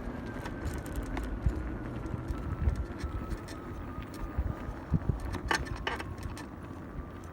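Electric pit bike's 1500 W hub motor whining as it runs, its thin pitch easing down over the first few seconds and then holding steady, over a low road-and-wind rumble. Light rattles and clicks come through, most clearly past the middle.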